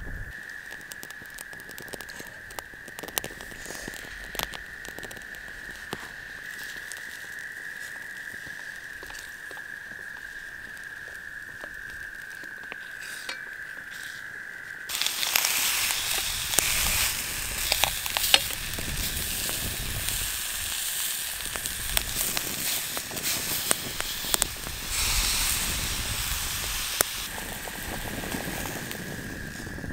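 Sausages and broccolini frying in a small pan on a folding wood-burning stove. Light crackles and clicks for the first half, then a loud steady sizzle from about halfway, with clicks and scrapes of a wooden spatula turning the food; the sizzle eases near the end. A steady high trill of frogs runs underneath.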